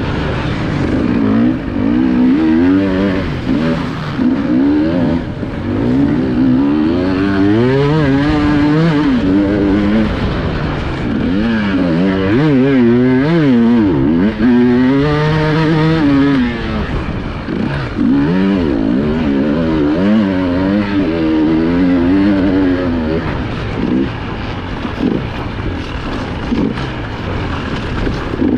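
Off-road motorcycle engine revving under hard throttle, its pitch swinging up and down in quick rises and falls as the throttle is worked.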